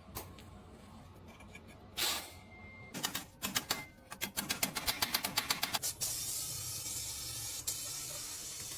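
Workshop sounds: a short hiss, then a fast run of sharp clicks at about eight a second for some three seconds, then a long steady spray hiss.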